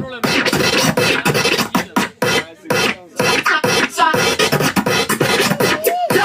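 Hip-hop DJ turntable routine: the beat drops out and samples are cut up into short stop-start chunks and scratched, with a sliding pitch glide near the end.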